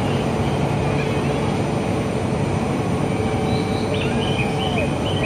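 Steady hum and rush of an E4 series double-decker Shinkansen train, with a faint steady whine running through it.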